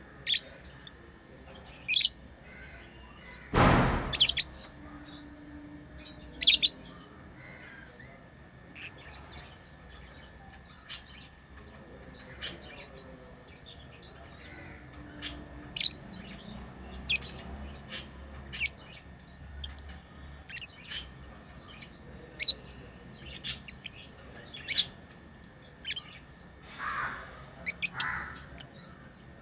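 Pet lovebirds chirping: short, sharp, high chirps scattered irregularly, one or two a second. A brief loud rustle or knock comes about four seconds in.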